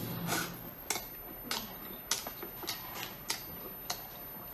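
Person chewing cooked seafood close to the microphone, with short wet mouth clicks and smacks about every half second.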